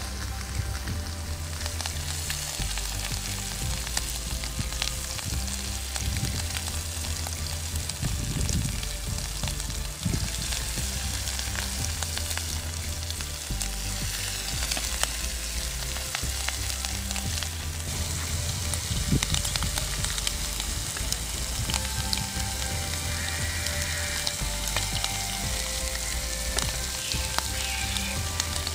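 Masala-coated prawns frying in a pan of hot oil, a steady sizzle dotted with small crackles and pops.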